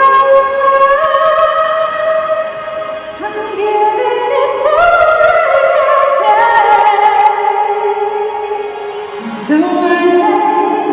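A woman singing a slow, sustained melody in a song, her notes held long and stepping up and down.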